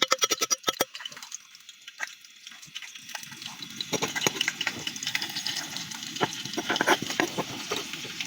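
Food frying in a cooking pot over a campfire: a quick run of clicks in the first second, then a steady crackling sizzle with scattered pops.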